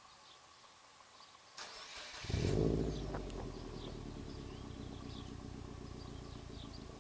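2009 Subaru WRX's turbocharged 2.5-litre flat-four started through an aftermarket cat-back exhaust. The starter cranks for under a second, the engine catches about two seconds in with a brief flare of revs, then settles into a steady idle.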